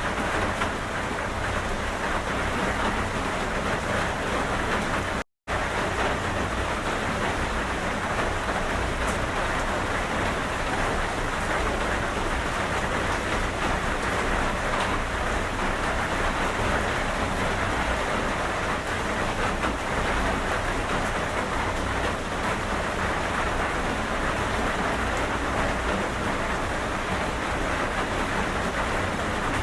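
Steady rain falling, an even hiss of drops on a surface. About five seconds in it cuts out to silence for a split second, then carries on unchanged.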